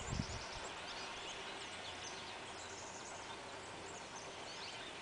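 Faint outdoor ambience: a steady low hiss with small birds chirping high and often throughout, and a few soft low thumps right at the start.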